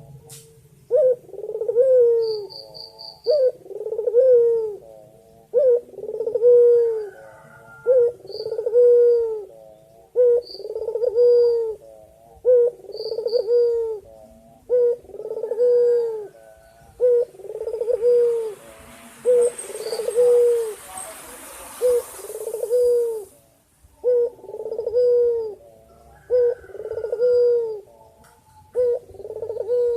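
A male white collared dove (puter putih) cooing over and over, about one arched low coo a second, with a short break a little after two-thirds of the way through. Faint high chirps of small birds come in between, and a hiss rises for several seconds just before the break.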